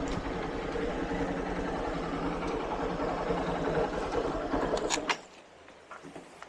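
A small vehicle engine running steadily, then switched off about five seconds in, with a couple of sharp clicks just before it stops.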